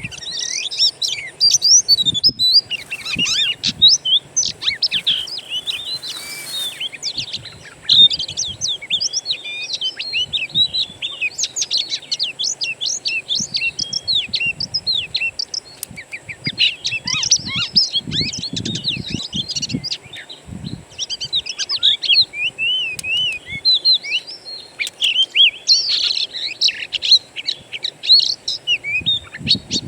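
Dense chorus of wild songbirds: rapid, overlapping chirps, trills and whistles that go on without a break, with two short bursts of rushing noise a few seconds in.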